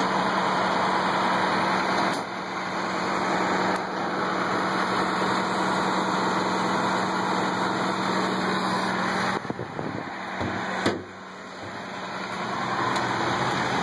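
Steady rumble and hum of an Alaska Railroad passenger train, heard at an open window in the car's vestibule. About nine and a half seconds in the noise drops off sharply and becomes muffled, with one sharp click a moment later.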